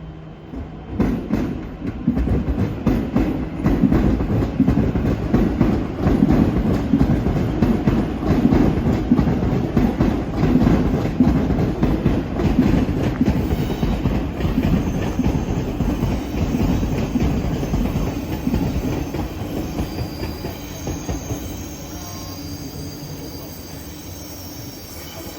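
A train running past, its wheels clattering over the rail joints. The sound builds within the first couple of seconds, stays loud, and fades over the last several seconds, with thin high wheel squeals near the end.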